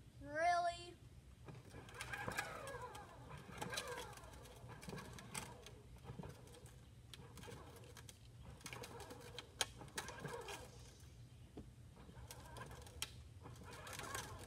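Birds calling faintly: scattered short calls with gliding pitch, and one louder call about half a second in.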